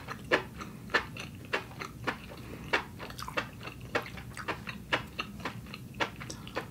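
Close-miked chewing of noodles: a run of short, wet mouth clicks, about two a second.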